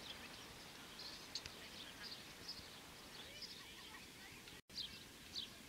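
Faint bird chirps, short high calls every half second or so, over quiet outdoor background noise, with a brief break in the sound about two-thirds of the way through.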